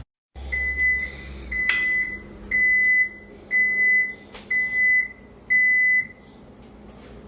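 An electronic appliance beeper sounding six steady beeps, each about half a second long and about a second apart, with a couple of sharp clicks among them.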